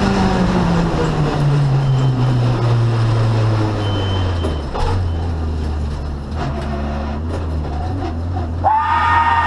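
Renault Clio 2 Cup's four-cylinder engine heard from inside the cabin, its revs falling steadily over the first four seconds as the car slows, then running low and steady. Near the end a loud, held high-pitched note with overtones sounds for about a second.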